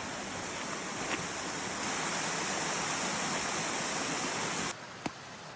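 Steady rush of a waterfall's falling water. It cuts off suddenly near the end, leaving a fainter hush with a single sharp click.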